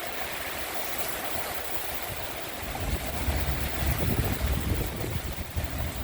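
Heavy rain pouring steadily. About three seconds in, a low rumble rises and falls for a couple of seconds, then dies back.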